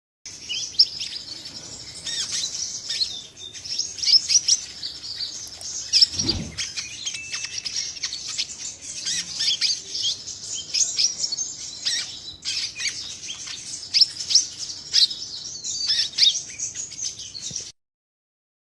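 A sunbird (kolibri) singing a fast, continuous stream of high, sharp chirps and twitters. There is a dull low bump about six seconds in, and the song cuts off abruptly shortly before the end.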